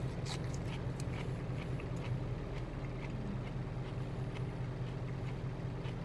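Truck engine idling in the cab, a steady low hum, with small scattered clicks of eating: chewing and chopsticks against the lunch box.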